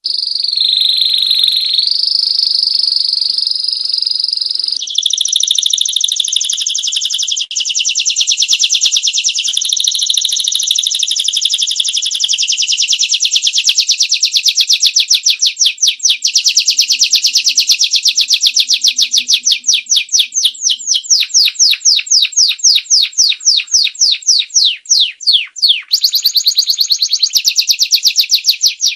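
Domestic canary singing. It opens abruptly with a few held whistled notes, then runs into a long fast trill of repeated notes that grows slower and more distinct later on, with a short break near the end.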